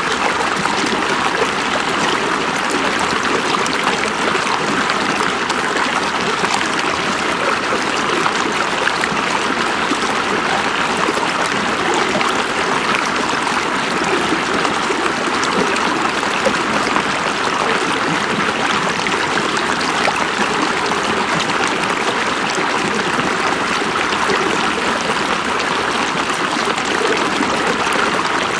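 River water running over rocks: a steady, unbroken rush with fine trickling and splashing.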